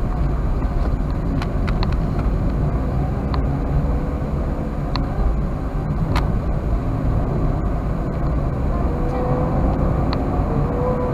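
A Toyota Wigo driving along: steady low rumble of engine and road noise, with a few faint sharp clicks scattered through it.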